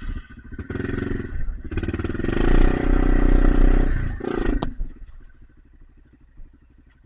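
Dirt bike engine revved hard for about four and a half seconds, loudest in the middle, then dropping back to a low idle. The bike is stuck against rocks and is being revved to drive it free.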